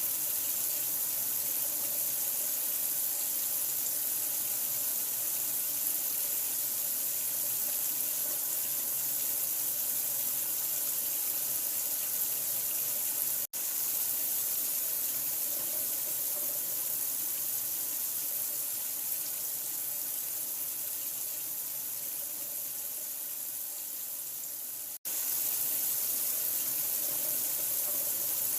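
Steady rush of running water, an even hiss with no rhythm, as a sleep sound for a newborn. It cuts out for an instant twice, about halfway through and again near the end.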